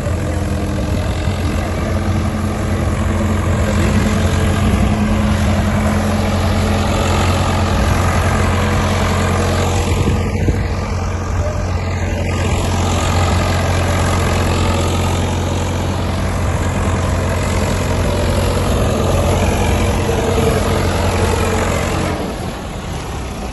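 Tractor diesel engine running steadily, driving a PTO-powered tipping trolley; the sound drops in level about 22 seconds in.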